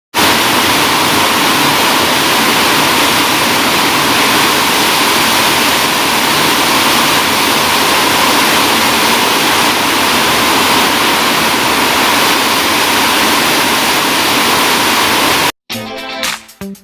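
Heavy rain pouring down in a steady, loud, even rush. It cuts off abruptly near the end, and music begins.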